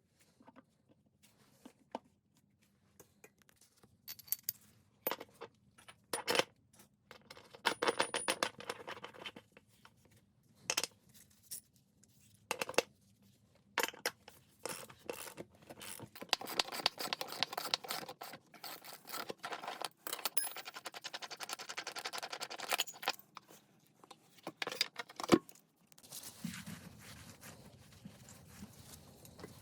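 Tools and metal parts being handled: scattered clinks and knocks, two longer stretches of rattling and scraping, and one sharp knock near the end, followed by a low steady noise.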